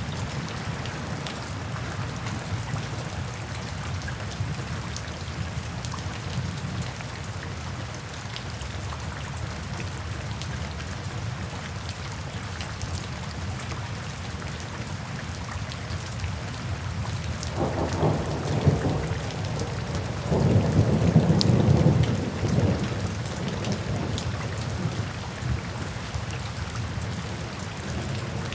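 Steady rain falling, with fine drop patter throughout. Thunder rumbles low about two-thirds of the way in, then rumbles louder for a couple of seconds just after.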